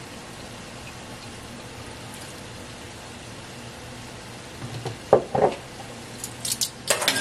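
Ground pork and Brussels sprouts sizzling steadily in a skillet over the gas burner. From about five seconds in, a few knocks and sharp clinks as bottles and measuring spoons are handled.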